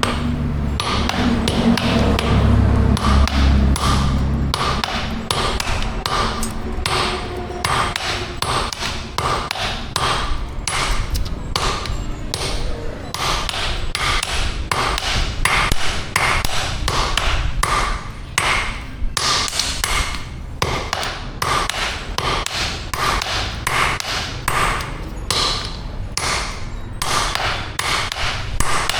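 Hammer blows on metal at an anvil while forging an axe, about two strikes a second, each with a short metallic ring. A low steady hum sits under the first few seconds.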